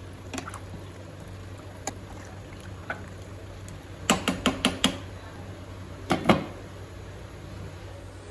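A metal spoon knocking against a kadai: a few single clinks, then a quick run of five knocks about four seconds in and two more a couple of seconds later, over a steady low hum.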